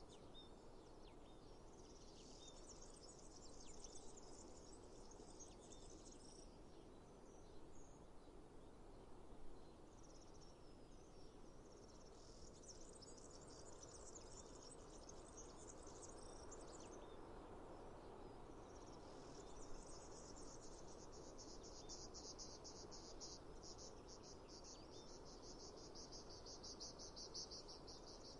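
Faint insects chirping in a high register, coming and going in bouts. In the last third it settles into a rapid, even pulsing trill. A soft steady hiss runs beneath.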